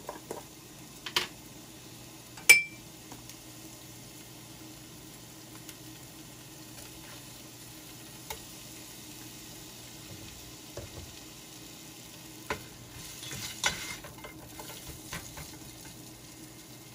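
Sliced onion and ginger sizzling faintly in a little oil in a nonstick pot. There is a small click about a second in and a sharp clink with a brief ring about two and a half seconds in, then a plastic spatula stirring and scraping against the pot, with a few knocks, later on.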